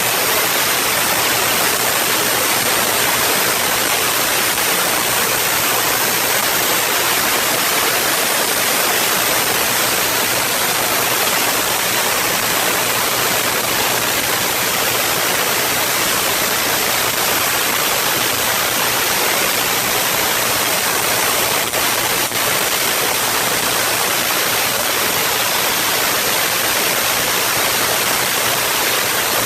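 Artificial thunderstorm sound: a steady, even rushing noise like heavy rain, with a faint low hum under it and a couple of faint clicks about 22 seconds in.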